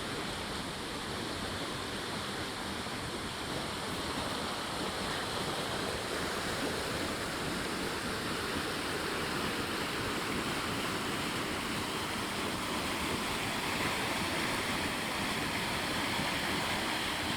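Water of a stream flowing steadily, growing slightly louder after the first few seconds.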